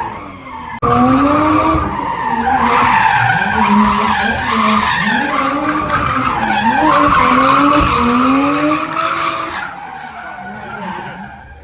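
A drift car's engine revving up and down hard as its tyres squeal through a slide. The sound jumps in sharply just under a second in and falls away near the end.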